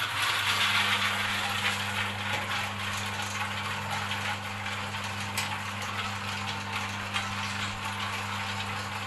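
Seasoning mixing machine for chips running: a steady electric-motor hum under a dense rattle, louder for the first couple of seconds.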